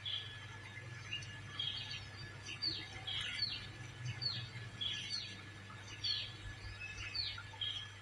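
Birds chirping: a run of short high calls, many sweeping downward in pitch, about two a second, over a low steady hum.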